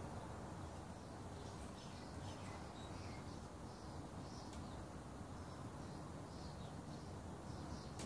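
Faint short, high bird chirps scattered through, over a steady low background noise.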